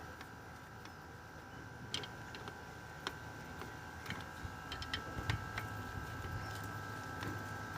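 Scattered light clicks and taps of small parts or tools being handled, more frequent in the second half, over a faint steady hum.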